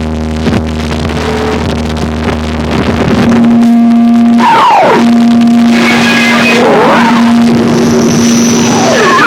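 Experimental noise music: a layered humming drone of steady tones that grows louder about three seconds in, where a strong held tone enters with swooping pitch glides rising and falling over it.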